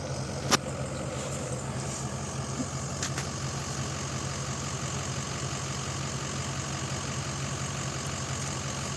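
Off-road vehicle's engine idling steadily, with a sharp click about half a second in and a fainter one about three seconds in.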